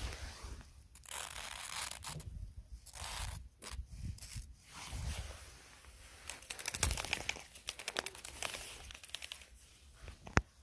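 Footsteps crunching in snow, a run of steps about a second apart, with a sharp click near the end.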